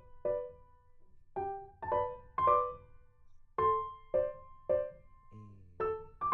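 Background piano music: single notes struck one after another, each ringing and dying away.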